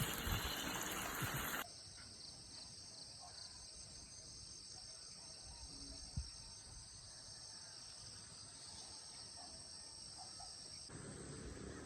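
Insects chirring steadily in a high, even drone, after a louder rumbling noise that cuts off suddenly in the first second and a half. There is one soft thump about six seconds in.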